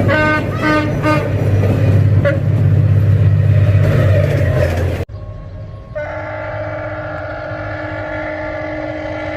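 Diesel locomotive's deep engine and wheel rumble as it passes, with a quick series of short pitched toots in the first second. About five seconds in, the sound cuts off abruptly. From about six seconds, a long steady chord-like horn blast sounds and holds.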